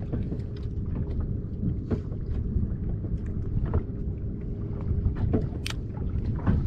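Steady low rumble of a small fishing boat's motor, with wind on the microphone and a few light knocks, one sharper click near the end.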